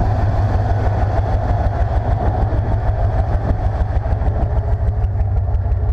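1995 Chevrolet C/K 1500 pickup's engine idling steadily.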